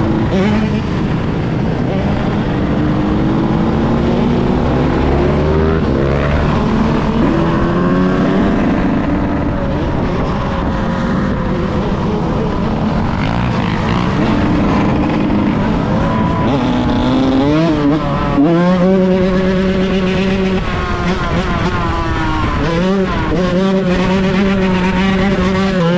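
Yamaha YZ125 single-cylinder two-stroke dirt bike engine being ridden hard. Its pitch climbs and drops again and again through the gears, and it holds a steadier note for a few seconds near the end.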